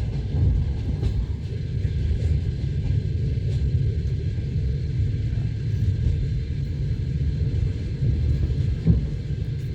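Steady low rumble of a moving passenger train, its wheels running on the rails, heard from inside the carriage, with one light knock near the end.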